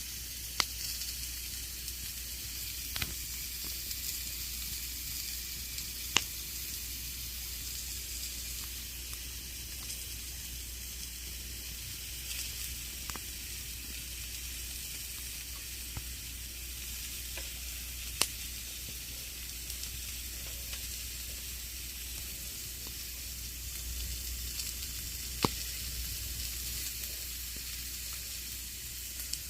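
Wood campfire burning: a steady hissing crackle with a handful of sharp, louder pops spaced several seconds apart.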